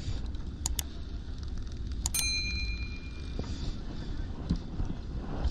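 Steady low rumble of a fishing boat at sea. About two seconds in, a sharp metallic clink rings briefly at a few clear pitches and dies away.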